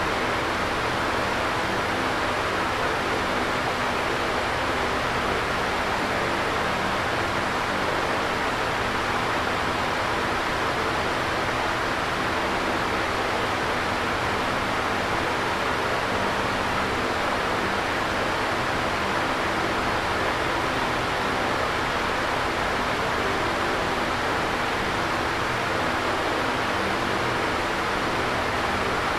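Electric fan running steadily: an even airy whoosh with a faint low hum underneath, unchanging throughout.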